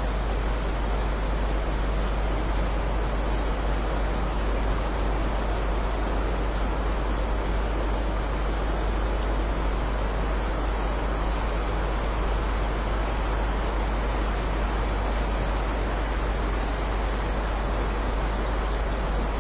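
Steady heavy rain, an even unbroken hiss with a strong deep rumble underneath.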